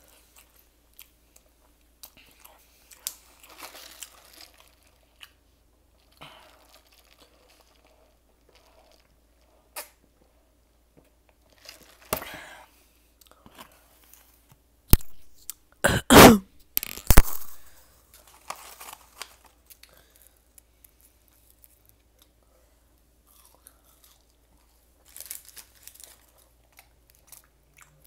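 A person chewing and crunching a crispy chicken sandwich close to the microphone, with scattered small mouth clicks. A couple of loud coughs come about halfway through.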